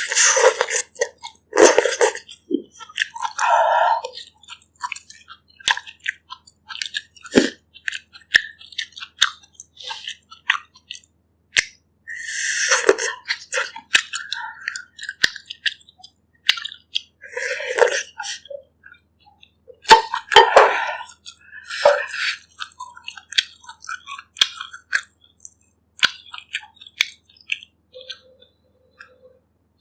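Close-miked eating of bak kut teh pork ribs and broth: wet chewing and many small mouth clicks and smacks. Several longer, louder breathy sounds come near the start, about twelve seconds in, and around eighteen and twenty seconds.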